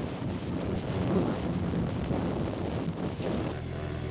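Wind rushing over the microphone with engine noise from a 2023 Suzuki Hayabusa being ridden. About three and a half seconds in, the wind drops away and a steady engine hum takes over, as when the bike slows to idle.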